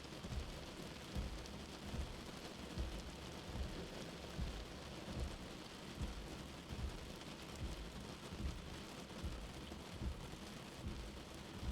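Steady rain hissing, with a soft, low heartbeat thumping under it about once every second and a half.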